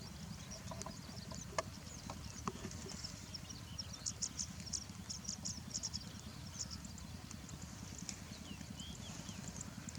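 Small birds chirping: short, high-pitched chirps in quick clusters, thickest about four to six seconds in, over a steady low rumble.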